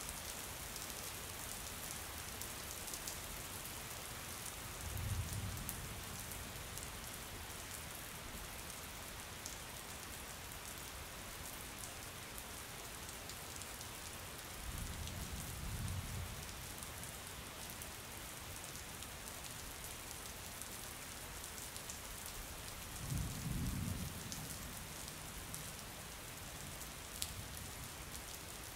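Steady rain falling, an even hiss with fine patter of drops. Three short low rumbles come through it, about five, fifteen and twenty-three seconds in.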